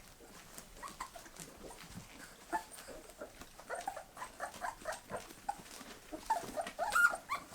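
Bull terrier puppies at weaning age whimpering in many short high-pitched squeaks, which come more often near the end.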